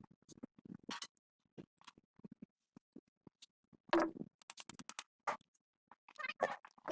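Scattered small clicks, taps and scrapes of parts and hand tools being handled, with a longer scrape about four seconds in and busier handling near the end.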